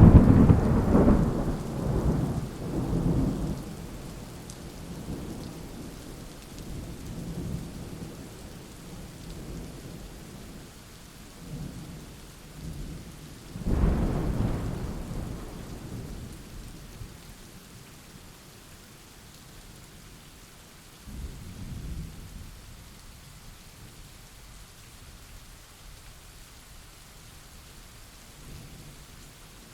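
Steady rain falling through a thunderstorm. A loud thunderclap right at the start rumbles on for about four seconds, a second peal about halfway through rolls away over a few seconds, and a fainter rumble follows about two-thirds of the way in.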